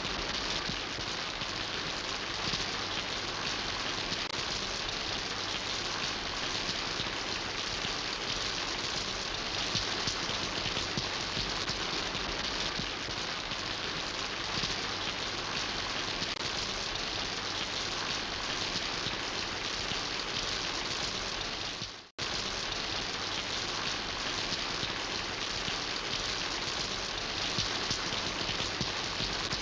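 Steady rainfall, an even hiss of drops on a surface, which fades out and cuts back in abruptly about two-thirds of the way through.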